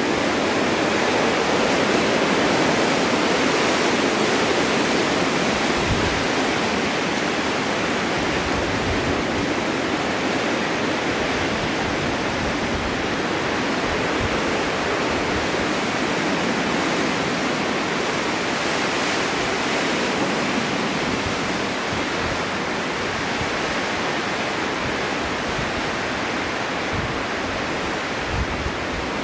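Winter storm wind blowing steadily, a loud even rushing that eases a little over time, with scattered low rumbling gusts underneath.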